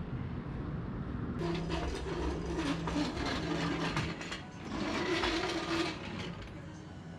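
A small power tool's motor runs in two bursts, the first about three seconds long and the second about a second and a half, with a steady hum and a clattering rattle.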